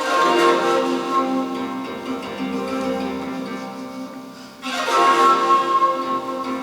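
Plucked string music with sustained, ringing notes that slowly fade; about four and a half seconds in, a quick sweep across the strings brings in a fresh, louder chord.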